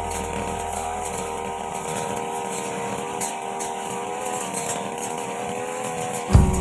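Brush cutter engine running at a steady speed with an even whine. A sharp knock near the end.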